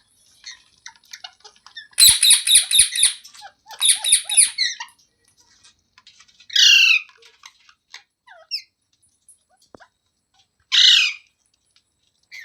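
Rose-ringed (Indian ringneck) parakeet squawking: two rapid runs of harsh calls about two seconds in, then two single loud squawks, with soft chirps between.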